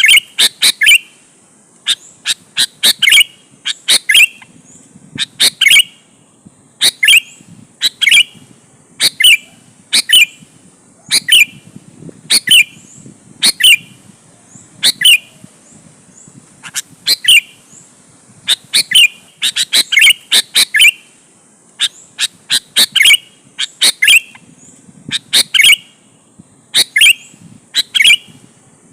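Sooty-headed bulbul (kutilang) singing vigorously: short, sharp, clear phrases repeated roughly once a second, some in quick pairs. A faint steady high whine runs underneath.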